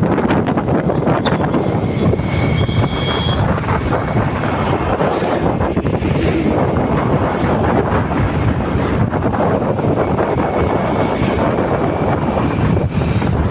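Wind buffeting the microphone: a loud, steady rumbling rush with no break.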